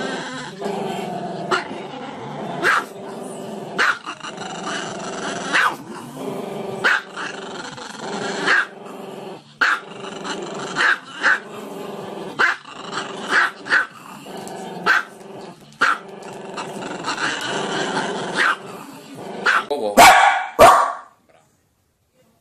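A small dog vocalizes continuously with its head raised, a drawn-out pitched call broken by short, sharp barks roughly once a second. The two loudest barks come near the end, after which the sound cuts off abruptly.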